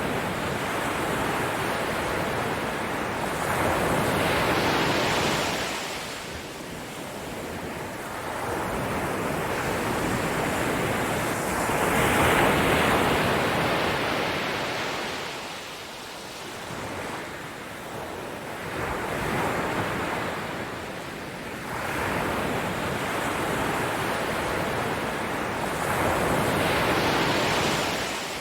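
Ocean surf: waves breaking and washing in, a steady rushing that swells and eases every several seconds.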